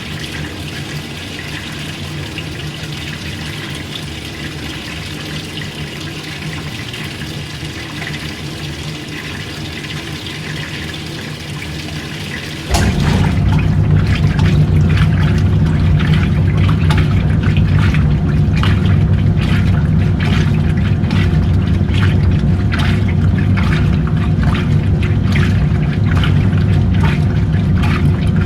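Water running and sloshing in an old-style washing machine over a low steady hum. About 13 s in it suddenly gets much louder and heavier, with irregular splashing.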